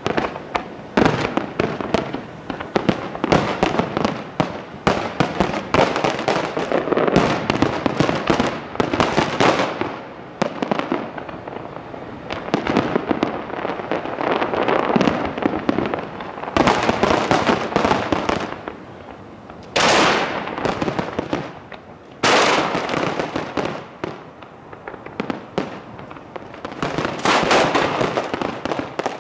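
Professional display fireworks heard at close range from the launch site: a dense barrage of aerial shell bursts and crackling, many bangs overlapping. It thins out in the middle, with two sudden loud bursts about two-thirds of the way through, then builds into dense firing again near the end.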